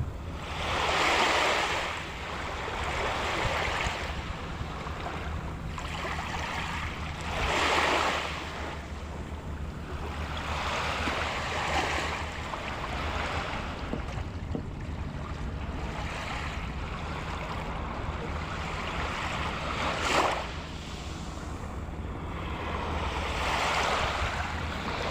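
Sea waves breaking and washing onto the shore, surging in a swell of surf every few seconds, with a steady low wind rumble on the microphone.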